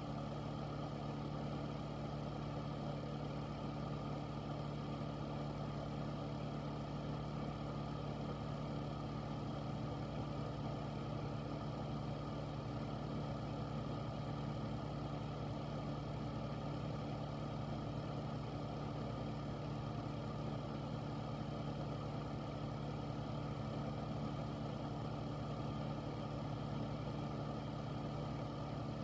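Air filter running steadily: an even motor hum with a few steady low tones under a constant rush of air, unchanging throughout.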